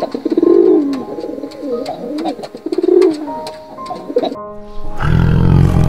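A bird giving a few low, pulsing cooing calls over background music with held notes; near the end a loud low sound cuts in.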